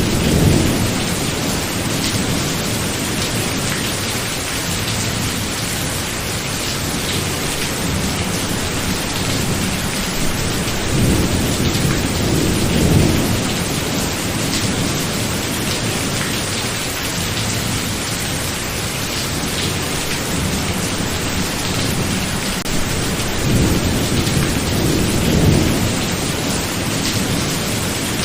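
Steady heavy rain with rolls of thunder: low rumbles swell and fade near the start, around the middle and near the end.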